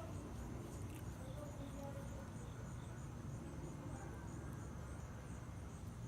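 Evenly repeated high chirps, about three a second, like a chirping insect, over a low steady rumble.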